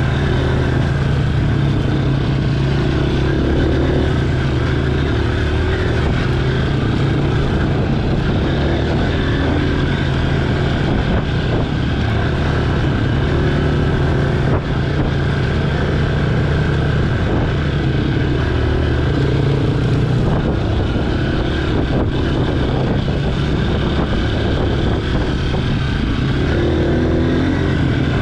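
Honda CRF230F dirt bike's single-cylinder four-stroke engine running at a fairly steady speed under way, with small rises and dips in revs, heard close up from a camera mounted on the bike.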